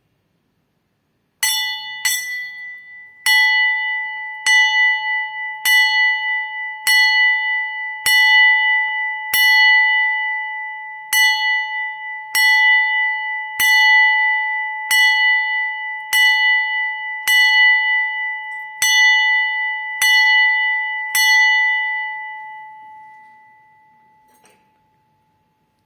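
A bell struck about seventeen times at a steady pace, roughly once every second and a bit. Each strike rings on the same high pitch and overlaps the next, and after the last strike the ring fades away over a few seconds.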